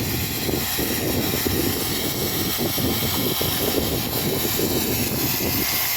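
Miniature railway train running: a steady rushing rumble with no clear beat.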